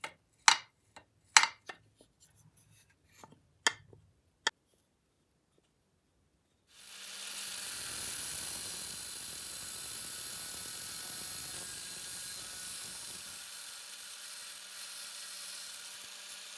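A few sharp metal clinks as parts of an antique cast-iron coal iron are handled. After a short silence, a steady hiss starts about seven seconds in and runs on, consistent with sandblasting the iron's painted parts.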